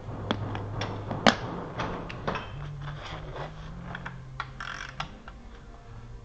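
Hand tools clicking and knocking against metal engine parts in an irregular run of sharp clicks, with one louder knock about a second in.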